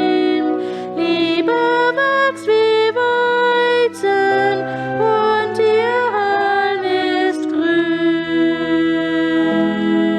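Slow church music: a stepwise melody over long held organ chords.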